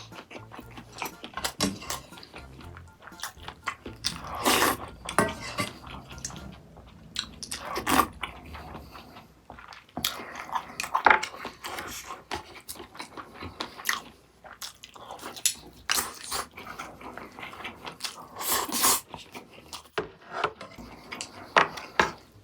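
Close-miked eating sounds: repeated biting and chewing with wet mouth clicks and crunches.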